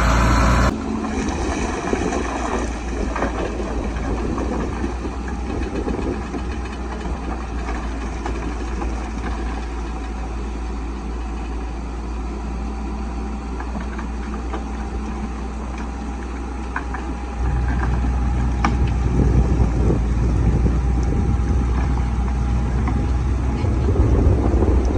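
Caterpillar bulldozer's diesel engine running steadily, with scattered short clanks. The sound changes abruptly just under a second in and gets louder and deeper at about 17 seconds.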